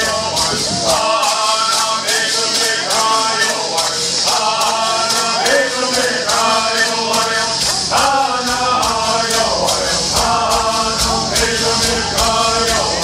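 Group of men singing Southern California bird songs in unison, in repeating phrases, over a steady beat of shaken gourd rattles.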